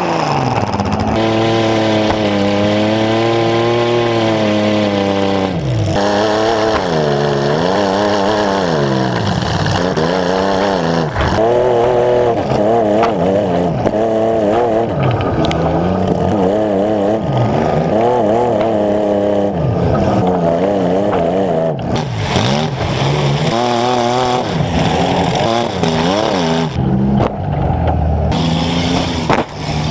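Demolition derby car engines, heard close up from the hood, revving up and down hard over and over as the cars drive and ram, with a few sharp metal crash impacts.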